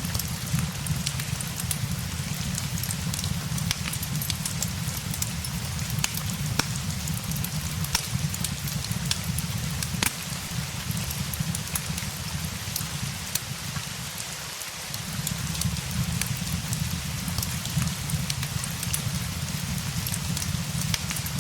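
Steady rain mixed with the scattered sharp crackles of a wood fire, over a low rumble that dips briefly about fifteen seconds in.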